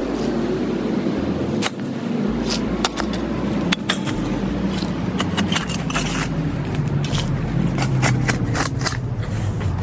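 A motor vehicle engine running steadily, with scattered sharp clicks and scrapes over it.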